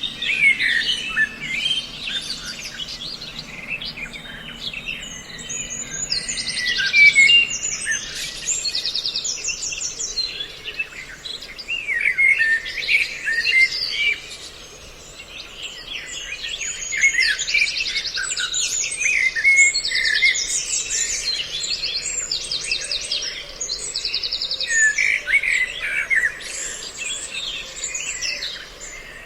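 Recorded mix of several songbird calls: dense chirps and whistles with repeated fast, high trills. It is a bird-trapping lure call meant to draw birds in.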